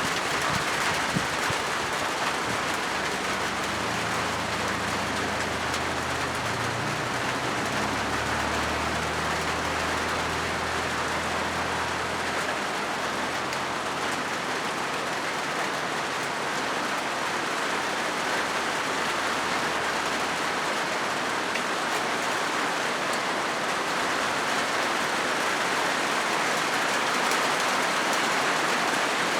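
Steady heavy rain drumming on a corrugated zinc roof, an even dense hiss with no breaks. A faint low rumble runs underneath from a few seconds in until about two-thirds of the way through.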